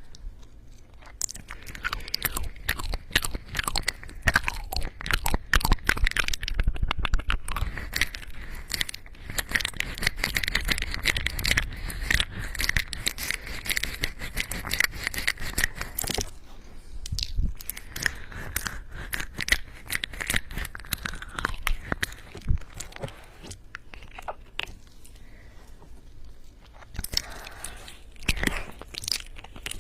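A cat chewing and crunching food close to the microphone, a rapid run of crackly crunches with a quieter spell past the middle. A steady high-pitched sound rides along for several seconds at a time during the chewing.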